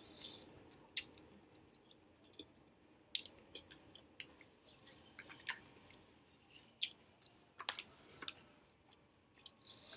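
A person chewing a mouthful of pepper steak and rice close to the microphone, with irregular wet mouth clicks and lip smacks.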